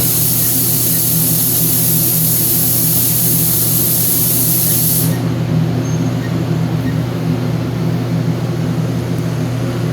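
A steady low machine hum, with a loud hiss of escaping air or spray over it for about the first five seconds that then cuts off suddenly.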